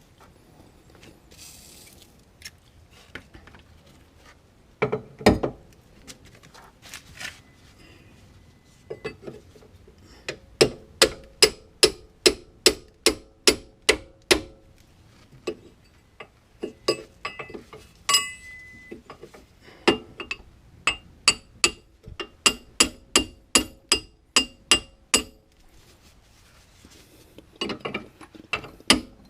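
Hand ratchet wrench clicking as it is worked back and forth on a bolt, in runs of about two clicks a second with pauses between, after a single knock about five seconds in.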